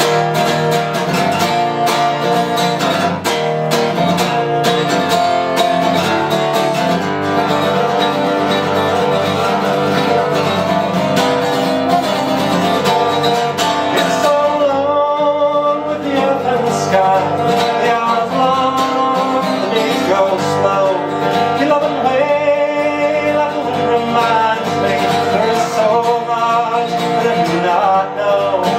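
Acoustic guitar playing a slow country-folk song, with a singing voice over it in the second half.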